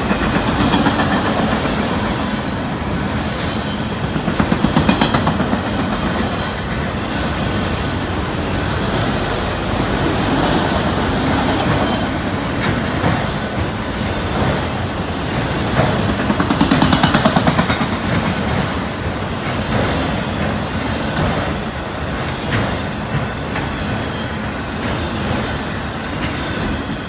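Freight cars, most likely empty auto-rack cars, rolling past at speed. The steel wheels clack steadily over the rail joints, with two louder swells partway through.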